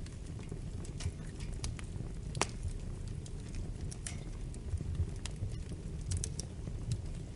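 Wood fire burning with a low steady rumble and irregular sharp crackles and pops, one louder pop about two and a half seconds in.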